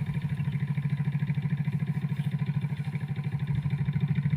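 An engine running steadily at idle with an even, rapid putter of about ten beats a second.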